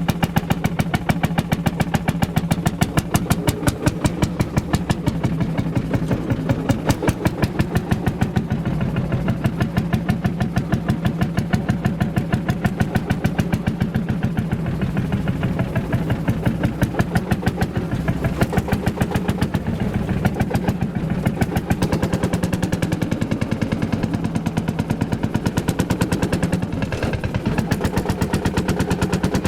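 Ursus C-451 tractor's single-cylinder two-stroke hot-bulb engine running steadily, its exhaust beating out a fast, even train of pulses.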